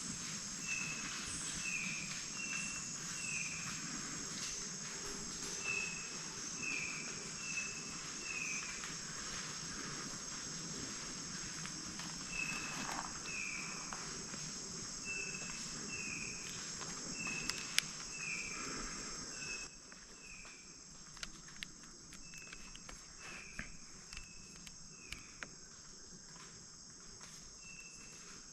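Rainforest insects keep up a steady high-pitched chorus. Over it a bird repeats short, slightly falling notes in runs of three or four, and there are scattered light clicks and rustles. The whole sound drops quieter about two-thirds of the way through.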